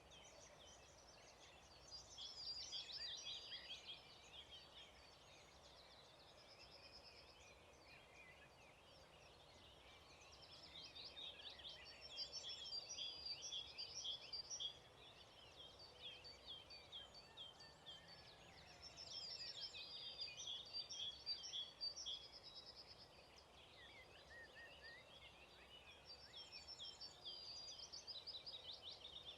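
Songbirds singing: four bursts of rapid high chirps and trills, a few seconds each, with quieter gaps between, over a faint outdoor background hush.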